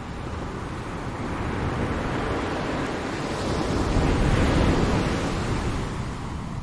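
Ocean waves breaking on a shore: a wave of surf rises to a peak about four seconds in and then washes back down.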